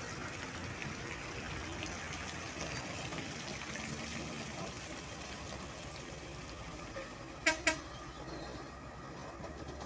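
Steady vehicle and road noise, broken about three-quarters of the way through by two short, quick horn toots.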